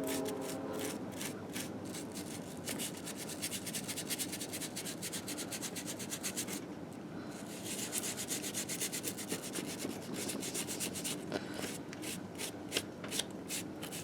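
Grime being scrubbed off a 1958 Harley-Davidson Sportster engine case: quick back-and-forth rubbing strokes, several a second, with a short pause about seven seconds in.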